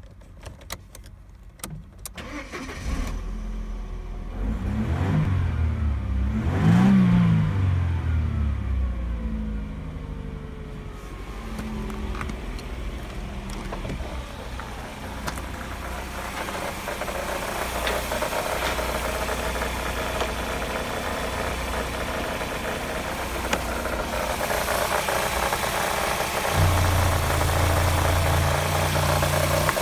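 Mercedes M111 2.3-litre four-cylinder petrol engine starting, revved up and down twice, then idling steadily. Near the end the oil filler cap is taken off with the engine running, and the sound turns louder and deeper.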